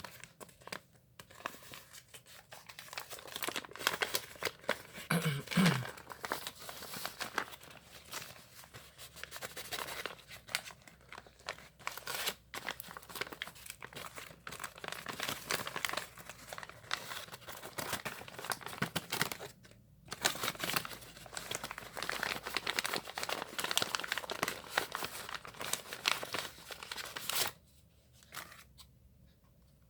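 Packaging being crinkled, handled and torn open, a dense crackling with short tearing sounds that stops abruptly near the end.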